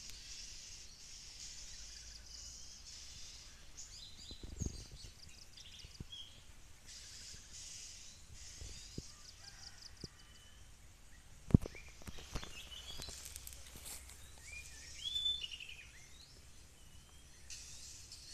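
Outdoor woodland ambience: a steady high insect buzz with scattered bird chirps and calls, busiest about three-quarters of the way through. A single sharp knock sounds about two-thirds of the way in.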